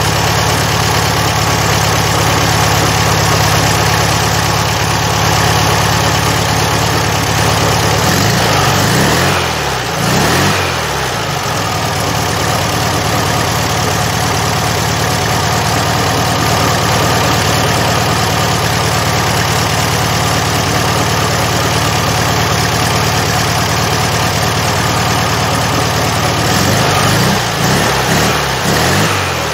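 Rebuilt Volkswagen Beetle 1300 air-cooled flat-four engine idling steadily, blipped up and back down to idle a couple of times about eight seconds in and once more near the end.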